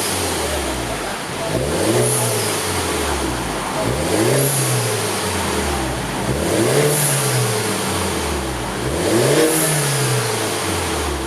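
BMW 116i F20's 1.6-litre turbocharged four-cylinder engine being free-revved through its exhaust: four blips, about every two and a half seconds, each rising in pitch and falling back to idle.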